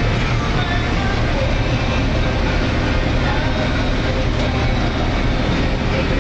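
John Deere combine harvester running steadily at working speed, a continuous heavy machine noise with a deep engine drone.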